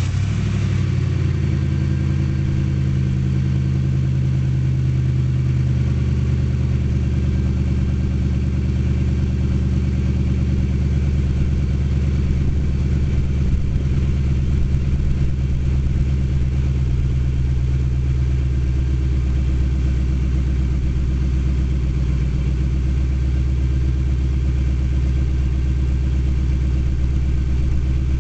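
1998 Ford Mustang GT's 4.6-litre V8 idling steadily through its exhaust just after a start, settling from a brief higher flare in the first second into an even idle.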